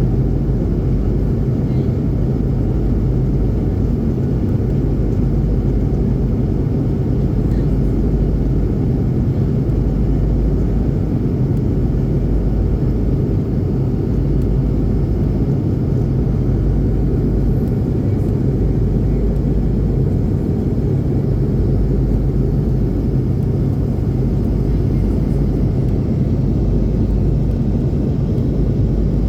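Airplane in flight after takeoff: a steady, unchanging low drone and rumble from the engines and airflow.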